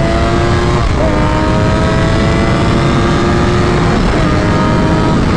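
Streetbike engine accelerating hard under a steady rush of wind, its pitch climbing slowly and dropping abruptly at upshifts about a second in and again about four seconds in.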